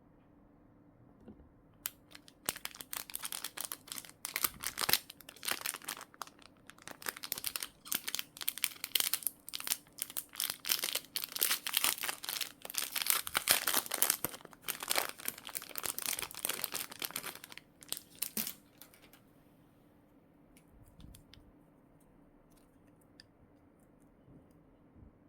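Plastic packaging being handled, crinkling and crackling densely for about sixteen seconds before it stops. A few faint ticks follow.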